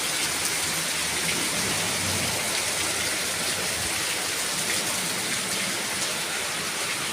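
Heavy rain pouring down steadily, a dense even hiss with scattered drops ticking on surfaces.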